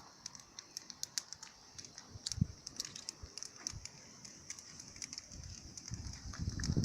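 Campfire crackling: irregular sharp pops and ticks of burning wood over a faint steady hiss, with a low rumble building near the end.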